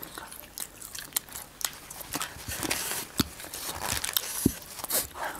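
Close-up eating sounds: people chewing and biting noodles and grilled meat, with irregular mouth clicks and smacks.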